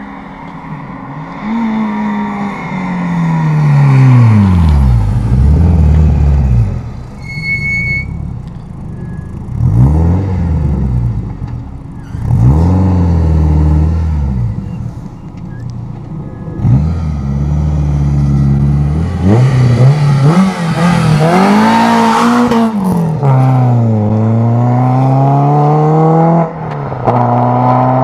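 Renault Clio RS's 2.0-litre four-cylinder engine, on a Group N exhaust with the catalyst removed, driven hard. The engine note climbs under acceleration and falls away many times, with sudden dips at gear changes and long falling sweeps as the car goes past.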